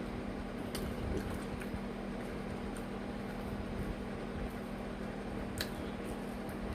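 Close-miked chewing of food: soft wet mouth and squishing sounds with a few faint sharp clicks, over a steady low hum.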